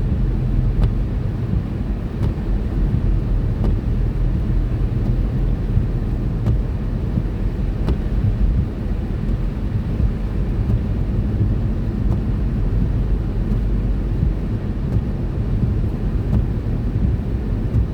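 Steady low rumble of a car being driven on a motorway: engine and tyre noise heard from inside the cabin, with a few faint ticks.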